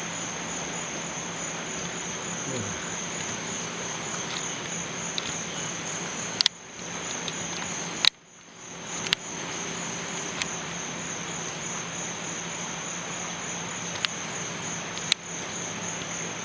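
Crickets trilling in a steady high band over a background hiss, with a handful of sharp clicks.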